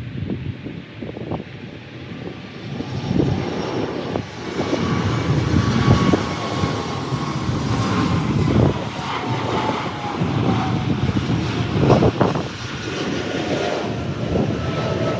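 Jet airliner on landing approach passing close by: its engines' rushing noise builds about three seconds in, with a whine that slowly falls in pitch as it goes past. Gusts of wind on the microphone rumble underneath.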